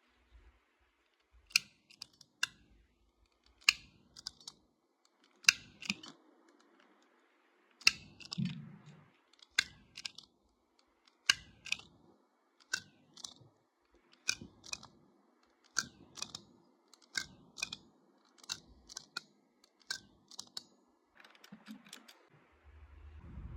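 Irregular sharp clicks and taps of hard plastic being handled, about one or two a second, some with a brief light ring, as parts and packaging of a portable sewing machine are unpacked.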